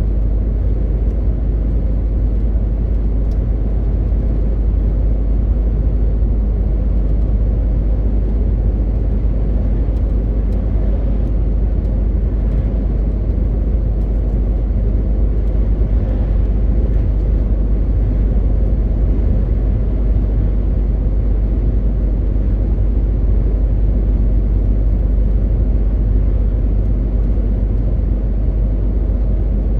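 MAN TGX 18.520 truck's inline-six diesel engine running steadily on the move, a constant low drone with road noise.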